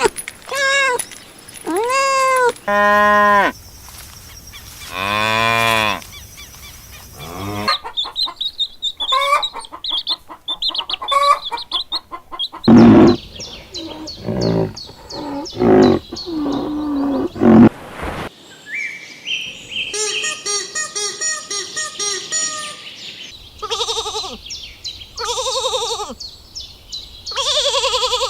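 A string of different farm animal calls in quick succession, among them a cow mooing.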